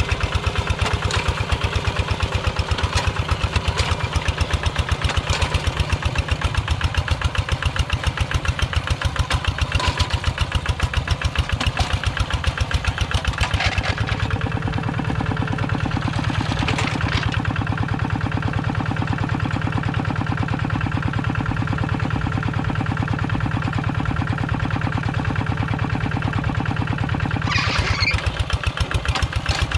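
Engine of a Kubota Quick G1000 two-wheel tractor running with a steady, even beat. Its note changes about halfway through, and a brief scraping or hissing noise is heard near the end.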